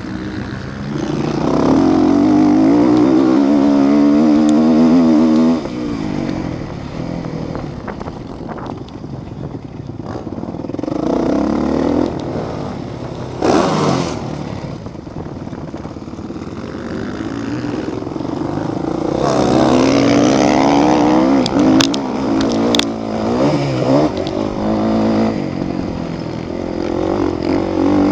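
Motocross motorcycles racing past, their engines revving up and dropping off; the loudest passes come about a second in and again about two-thirds of the way through.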